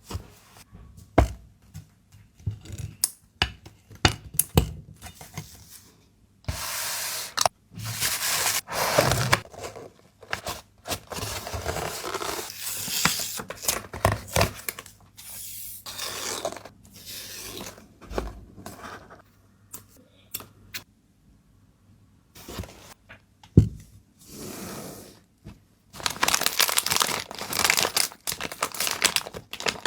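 Hands packing a parcel close to the microphone: small taps and clicks, then stretches of packing material being torn and crinkled, each lasting a second or more.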